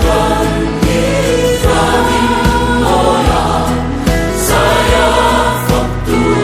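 Choral gospel music: a choir singing over accompaniment with a steady beat.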